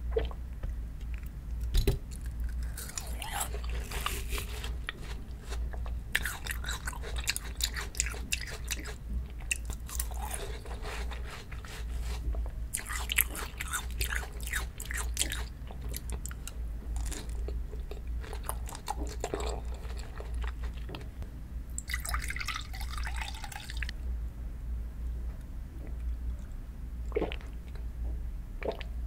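Close-miked chewing of fresh watermelon and peach slices, in several bouts of a few seconds each made of quick clicky bites and chews, over a steady low hum.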